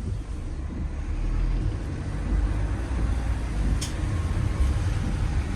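A vehicle running and rolling along, a steady low rumble, with one brief high click or squeak about four seconds in.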